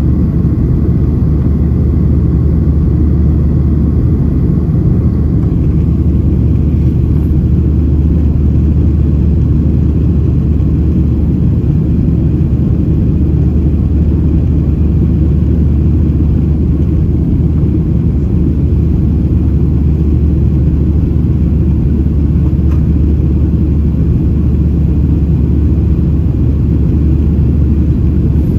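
Cabin noise inside a Boeing 737-700: a steady low rumble of its CFM56-7B turbofan engines and rushing air, with no change in pitch or level.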